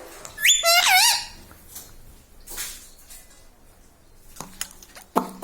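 Pet parrot giving one loud, high call about half a second in that glides sharply up and then wavers. Fainter rasping sounds and a short low sound follow near the end.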